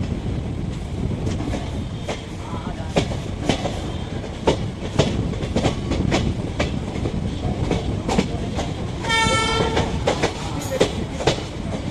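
Passenger train running at speed: a steady rumble of wheels on rail with irregular clickety-clack from the rail joints. About nine seconds in, the locomotive's horn sounds once, a short blast of under a second.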